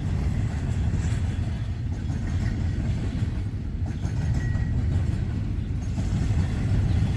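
Steady low rumble of a heavy vehicle running, with a couple of faint short high squeaks.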